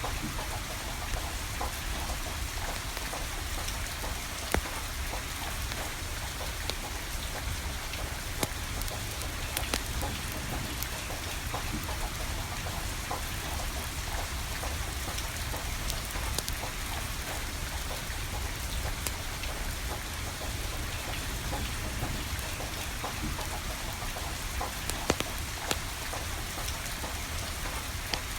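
Steady rain falling, with scattered sharp pops and crackles from burning firewood.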